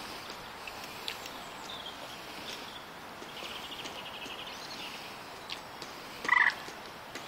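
Small birds chirping and trilling, with one loud, short call from a larger bird about six seconds in.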